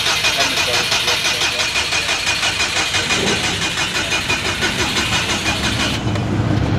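Drag race car engine being cranked by its starter, turning over in an even rhythm without catching: the engine is not starting. The cranking stops about six seconds in.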